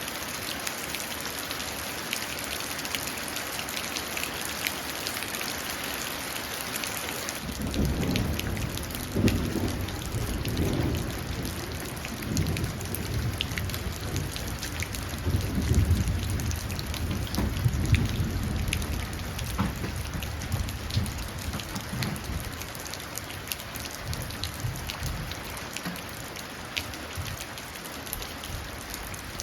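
Steady rain falling into a puddle, with scattered single drips. About seven seconds in, a roll of thunder starts suddenly and rumbles for some fifteen seconds in several swells before fading away.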